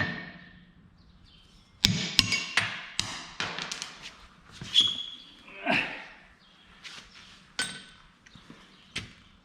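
Hand hammer striking a 1/2-inch black pipe set in a steel hinge bracket's hole on an anvil, flattening the bottom of the hole: three quick blows about two seconds in, then lighter taps and metal clinks, and one more blow near the end.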